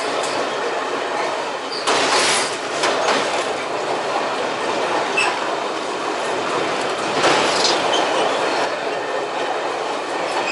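Passenger train running along the rails across a steel truss bridge, heard from the open rear end of the last carriage: steady wheel-and-rail noise with wind, swelling into louder rushes about two seconds in and again around seven seconds.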